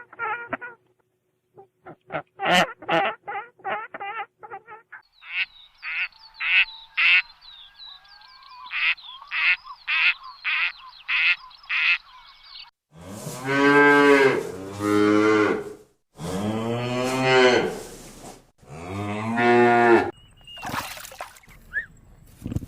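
A run of short, repeated bird calls, several a second, followed by cows mooing: four long, low moos, the loudest sounds here.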